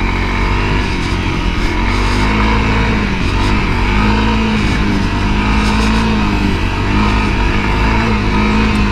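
Honda CRF250L's 250 cc single-cylinder four-stroke engine running under load, revving up and down repeatedly as the dirt bike works through deep sand.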